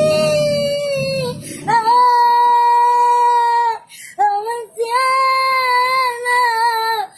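A child's voice singing long, high held notes, about three of them, each sustained a second or two with short breaks between. A low rumble underneath stops a little under two seconds in.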